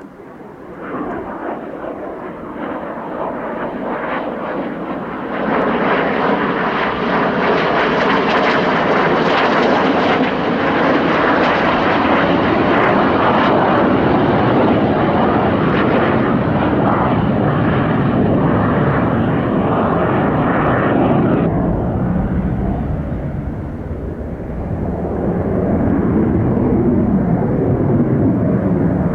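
Saab Draken jet's turbojet passing in a flyby: a loud jet roar builds over the first few seconds and holds. Around three-quarters through, the high hiss cuts off abruptly and gives way to a deep rumble, followed by a second swell of roar that sounds like echo off chalk cliffs.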